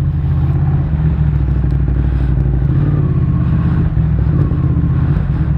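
Motorcycle engine running steadily at low speed in traffic, its low hum even throughout, over a steady rushing noise.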